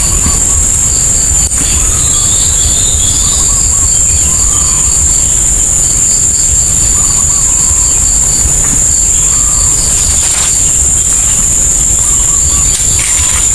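Heavy rain falling close to the microphone, with a steady high-pitched insect drone and a run of quick, evenly spaced chirps above it.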